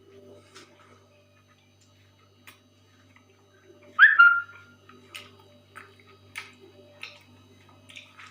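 A single short, loud animal cry about four seconds in: a sharp upward sweep ending in a briefly held note, over faint scattered clicks and a steady low hum.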